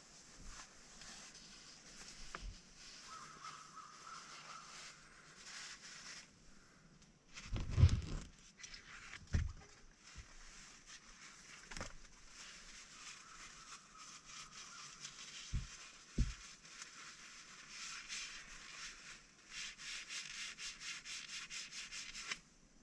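Rustling and rubbing with several dull thumps, the loudest about eight seconds in. Near the end comes a fast run of short scratchy strokes.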